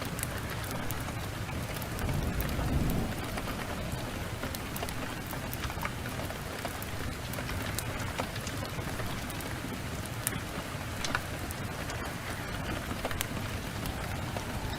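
Steady heavy rain, with a low roll of thunder swelling about two to three seconds in, and scattered sharp crackles from a wood fire throughout.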